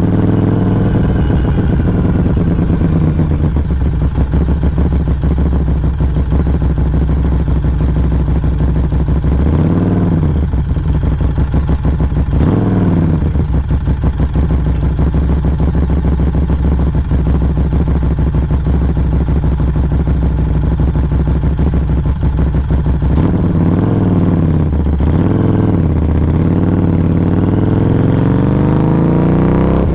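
Harley-Davidson Street XG500's V-twin running under way, heard close at its Firebrand Loose Cannon slip-on muffler. The engine speed drops and climbs again about a third of the way in, and rises and falls several times near the end as the rider eases off and gets back on the throttle.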